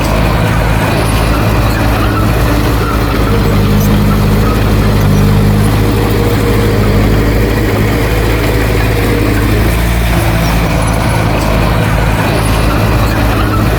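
Heavy diesel engine of earthmoving machinery running steadily under load, its note rising and working harder for several seconds in the middle before settling back.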